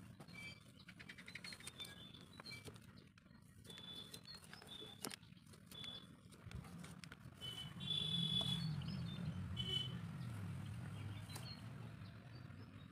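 Small birds chirping now and then, with a louder run of calls about eight seconds in, over a low hum. A few light clicks and scrapes of a knife blade cutting and smoothing wet clay.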